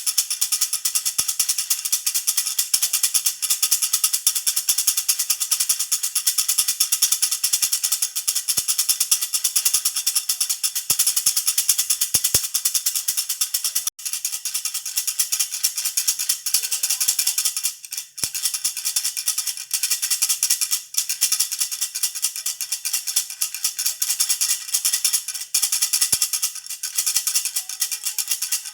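Jhunjhuna baby rattle shaken rapidly and without pause, a dense bright jingling, with a brief break about 14 seconds in.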